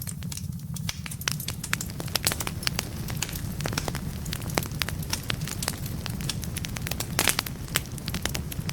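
Wood fire burning in a fireplace, crackling with many sharp pops over a steady low rumble. A brief cluster of louder pops comes about seven seconds in.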